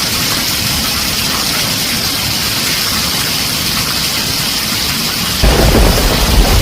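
Heavy rain pounding on a tin roof as a steady hiss; about five seconds in, a loud low rumble of thunder breaks in and carries on.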